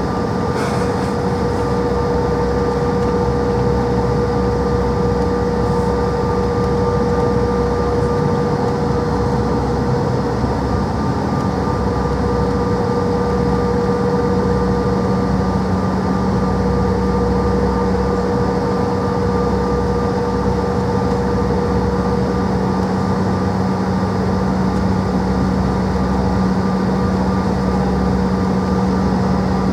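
Bombardier CRJ700's General Electric CF34 turbofan engines running at steady low thrust, heard from inside the cabin as a constant rumble with a steady hum and whine.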